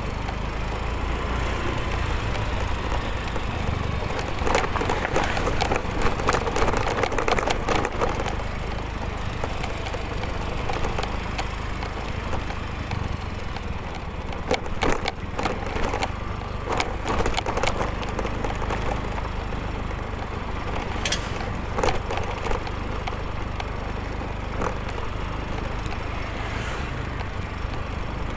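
Motorcycle riding along the road: a steady low rumble of engine and wind on the microphone, with scattered crackles and clicks.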